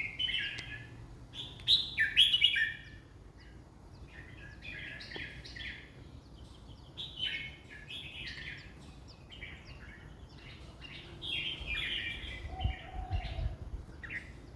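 Red-whiskered bulbul singing short, rapid warbled phrases again and again, the loudest in the first few seconds and softer ones after. A few dull low thuds come near the end.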